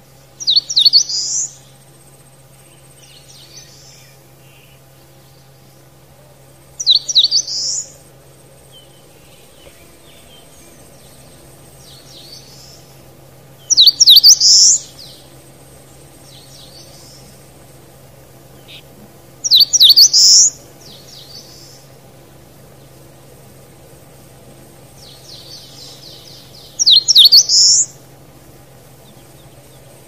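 A songbird singing a short phrase of rapid, high, sweeping notes, five times at intervals of about six to seven seconds.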